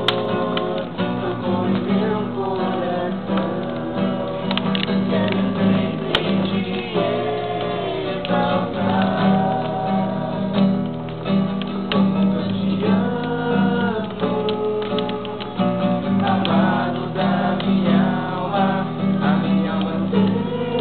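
Voices singing a worship song to acoustic guitar strumming.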